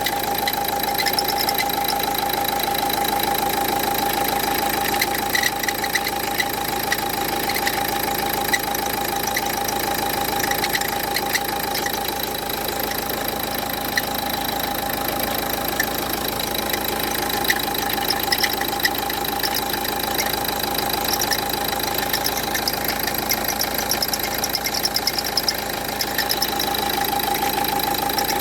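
Renault Duster 1.5 dCi four-cylinder diesel engine idling steadily with a constant high tone over the engine noise. This is the strange noise traced to a faulty alternator pulley.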